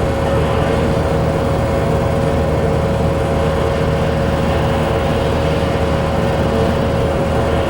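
Bowling alley room tone: a steady low rumble with a constant hum running through it.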